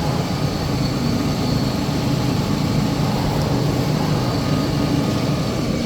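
Band saw cutting machine for maxi paper rolls running, with a steady motor hum.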